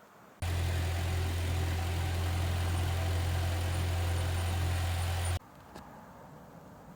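Engine idling steadily with a deep, even hum, of the Mitsubishi Jeep. It comes in suddenly about half a second in and cuts off abruptly about five seconds later.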